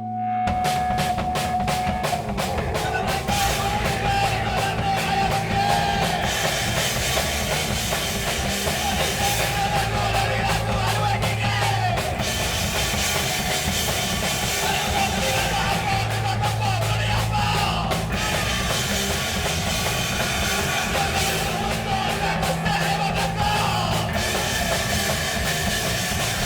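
Loud punk rock played by a band, driven by a fast drum kit, kicking in abruptly and running steadily.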